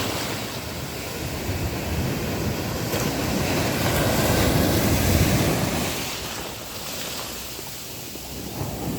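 Sea waves breaking and washing up the beach, the surf swelling to its loudest about halfway through, easing off, then building again near the end.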